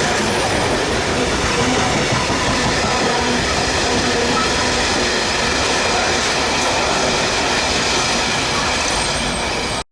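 A train passing close by at speed, a loud steady rush of wheels on rail. It cuts off abruptly near the end.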